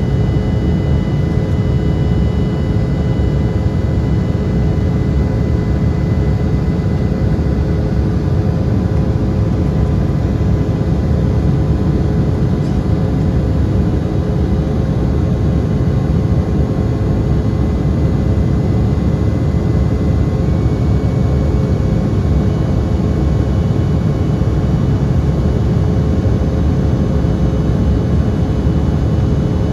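Embraer E175's twin GE CF34-8E turbofans and airflow making a steady, loud, deep rumble with several steady whine tones above it; one whine shifts slightly higher about two-thirds of the way in.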